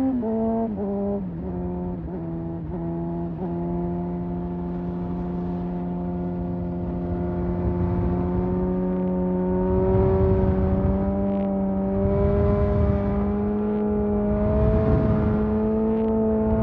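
Honda CBR600RR's inline-four engine under way. Its pitch drops in several short steps over the first few seconds as it slows through the gears, then holds a steady cruise, rising slowly. Gusts of wind noise come in the second half.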